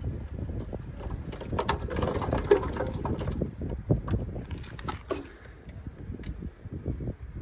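Washing machine running a high-speed spin with three watermelons smashed to pulp inside the drum: a steady low rumble with a rattling clatter about a second in, easing off near the end.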